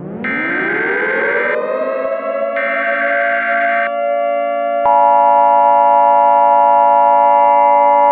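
Tornado warning siren winding up from low pitch to a steady wail, with a higher tone sounding twice over it in the first four seconds. About five seconds in, a second steady tone cuts in abruptly and the sound gets louder.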